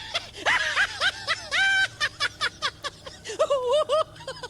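A frog giving a rapid run of short, high, squeaky calls, each rising and falling in pitch, with one held a little longer about one and a half seconds in.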